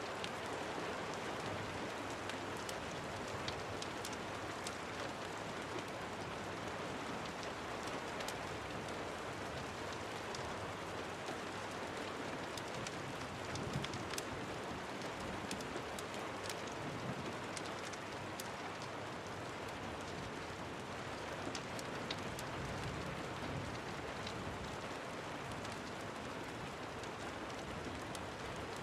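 Steady rain, with many sharp ticks scattered throughout.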